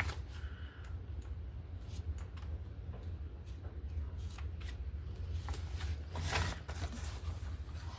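Magazine paper being handled: scattered soft rustles and light clicks, with a louder paper rustle about six seconds in, over a low steady hum.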